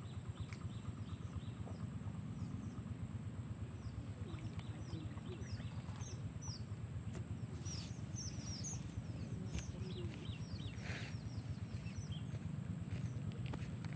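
Small birds chirping in the reeds: many quick, short, falling chirps, busiest in the middle stretch, over a steady low outdoor rumble.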